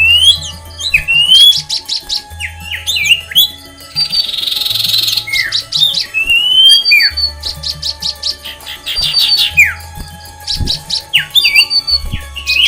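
Several aviary birds calling and singing together, with rapid chattering trills and sweeping whistled notes, over background music with a low bass line. About four seconds in there is a short hissing noise.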